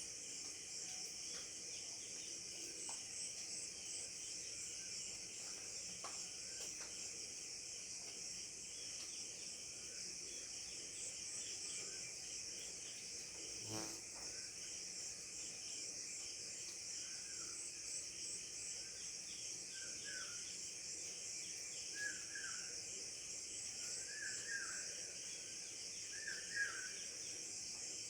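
Steady high-pitched chorus of insects. In the second half a bird gives short falling calls about every two seconds, and there is one faint knock about halfway through.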